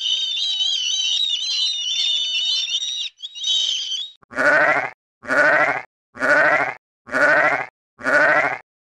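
Black-headed gulls giving high-pitched, wavering calls for about the first four seconds, then a sheep bleating five times in a row, about once a second, each bleat quavering.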